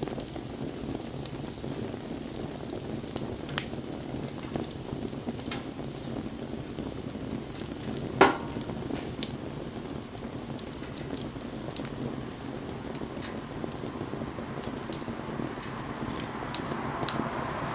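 Wood fire burning with a steady crackle and scattered sharp pops, one much louder pop about eight seconds in. A hiss builds near the end.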